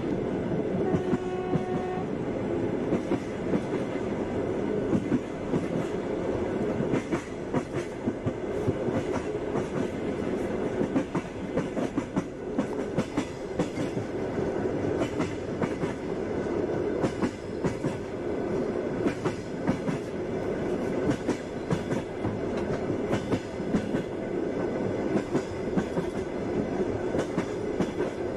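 Passenger train running on the rails, with a steady rumble and the clickety-clack of its wheels knocking over rail joints. A short steady tone sounds briefly about a second in.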